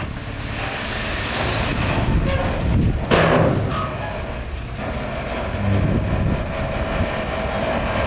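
Heavy earthmoving machine's diesel engine running steadily, with a brief loud burst of rushing noise about three seconds in.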